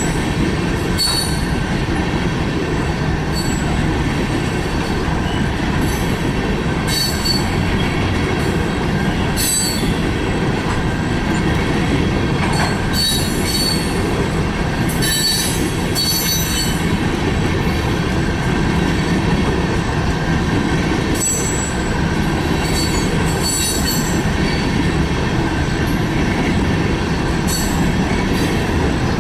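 Freight train cars rolling past at close range: a steady, loud rumble of wheels on rail, with short high-pitched wheel squeals every second or two.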